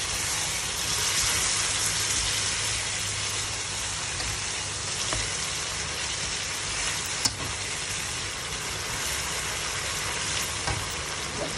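Beef pieces in thick soy-sauce gravy sizzling in a steel wok, steadily hissing while a slotted metal spatula stirs them, with a few sharp clicks of metal on the pan, the clearest about seven seconds in.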